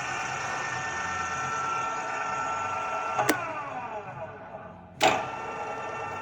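Ibarmia BX 35 geared head pillar drill running with a steady gear whine. About three seconds in there is a click and the drill winds down, its whine falling in pitch. About five seconds in a loud clunk brings it back up to running, now with a different tone.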